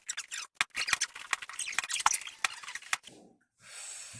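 Rapid, irregular crinkling and clicking of handled plastic. It breaks off about three seconds in and is followed by a soft hiss.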